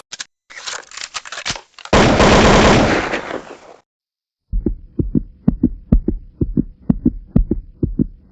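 A crackle of clicks, then a loud dense burst of noise lasting about two seconds; after a short silence comes a rapid run of low thumps, several a second, over a faint steady hum.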